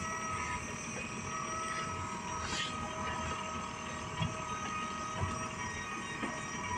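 A motor on a boat running steadily, a constant hum with a thin steady whine over it and a few light knocks.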